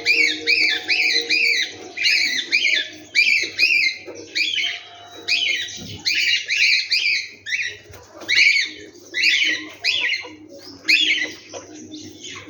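A bird singing: quick runs of repeated, arched notes, about three or four a second, in phrases broken by short pauses.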